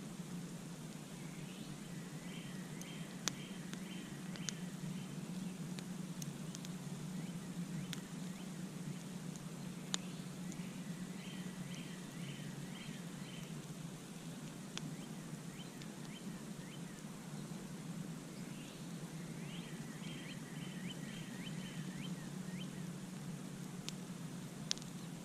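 Campfire crackling, with occasional sharp pops over a steady low rumble. A songbird sings a short phrase of quick repeated notes three times.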